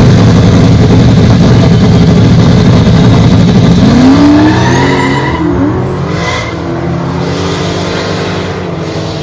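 Loud car engine running hard, then revving up about four seconds in and accelerating away, its pitch climbing and dipping as it fades.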